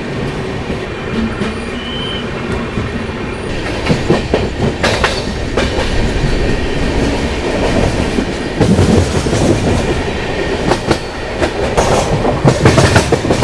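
Jan Shatabdi Express passenger train running at speed, heard from aboard: a steady rumble of the coaches with sharp clickety-clack of the wheels over rail joints, the clacks loudest near the end.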